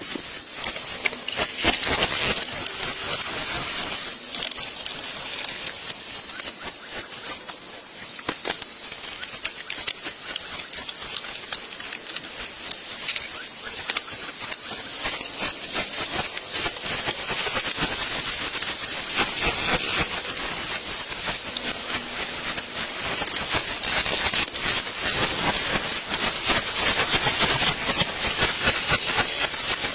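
Steady high hissing noise with many small crackles and ticks.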